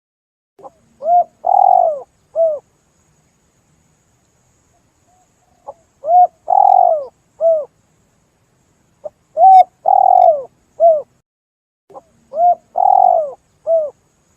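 Spotted dove (tekukur) cooing: four phrases a few seconds apart, each a short soft note followed by three coos, the middle coo the longest.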